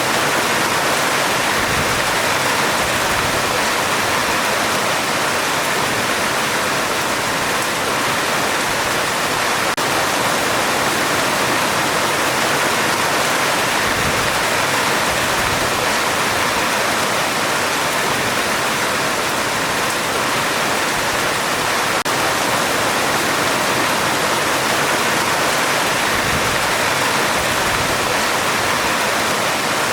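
Heavy rain falling on a metal roof: a loud, steady, even hiss with no break and no clear thunderclap.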